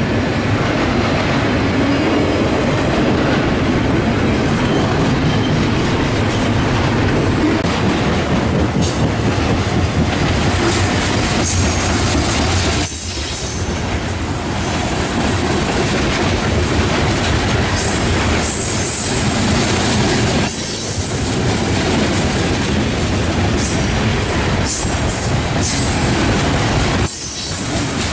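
Trains at close range: a Metra F40PHM-3 diesel locomotive, then a long BNSF intermodal train of trailers and containers rolling past. A steady, loud rumble of wheels on rail with clickety-clack and some wheel squeal.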